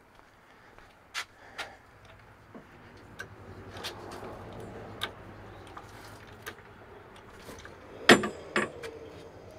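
Tools and metal parts being handled: scattered light clicks and knocks, then two loud clanks about half a second apart near the end, the first with a brief ringing.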